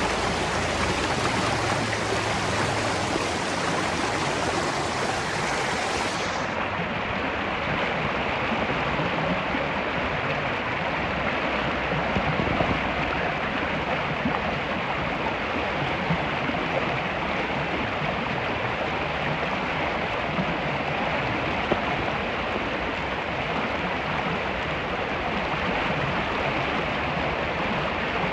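Spring water running in a steady, even rush.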